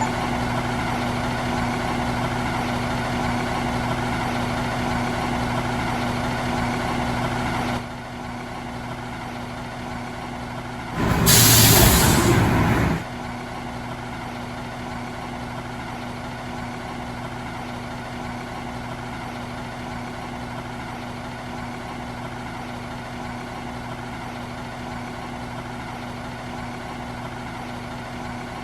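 Garbage truck's diesel engine running steadily, dropping to a quieter idle about eight seconds in. A little later comes a loud hiss of released air, like an air brake, lasting about two seconds, and then the engine idles on.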